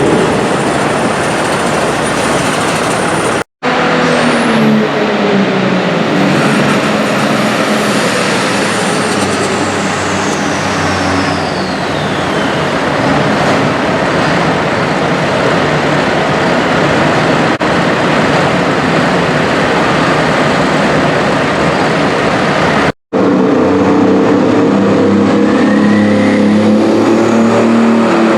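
Super stock pulling tractor's engine running hard at full power, loud and continuous, with a high whistle that falls slowly in pitch over several seconds. The sound cuts out for an instant twice.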